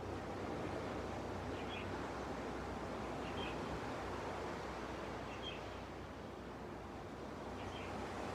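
Gentle waves washing on a beach, a steady wash of surf that swells and eases slightly, with a small bird giving a short high chirp about every two seconds.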